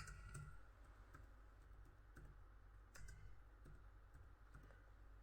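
Faint, sparse computer keyboard keystrokes and clicks, a few separate taps over quiet room tone.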